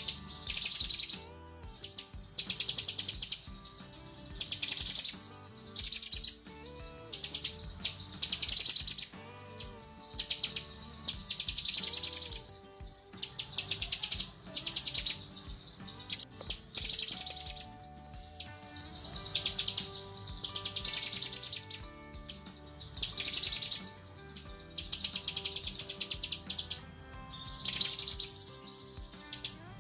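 Cucak kinoi calling in repeated rapid, high-pitched chattering bursts, each under a second long and coming about every two seconds. This is a female cucak kinoi's call to a male.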